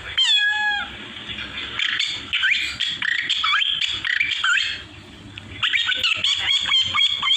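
A man imitating bird calls with his voice: a loud drawn-out squawk just after the start, then a rapid run of chirps and short rising whistled notes.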